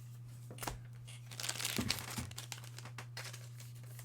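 Trading-card pack wrapper crinkling as cards are handled, with scattered clicks and a denser burst of crackling a little over a second in, over a steady low hum.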